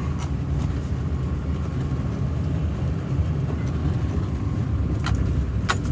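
Truck engine and tyres driving through wet mud, a steady low rumble. A couple of sharp clicks come near the end.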